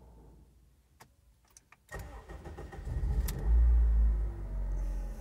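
2007 Honda Civic gasoline engine cold-starting: a few clicks, then about two seconds in the starter cranks and the engine catches at once. It flares up in revs and settles back to a high cold-start idle.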